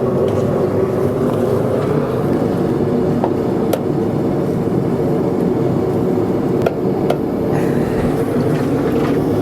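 Forge running steadily, with a few sharp metallic clicks at about four and seven seconds in.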